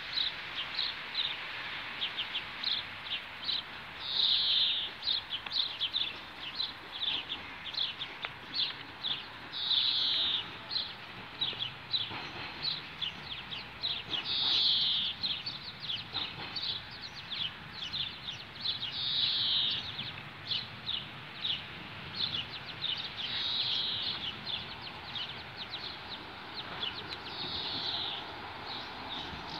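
Songbirds chirping: rapid short high chirps throughout, with a louder song phrase about every five seconds over faint background noise.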